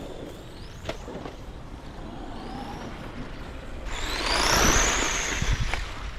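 Electric motors of Schumacher Bosscat radio-controlled buggies whining, rising and falling in pitch as the cars speed up and slow down. About four seconds in, one passes close with a much louder rush of noise and a high whine that rises and falls.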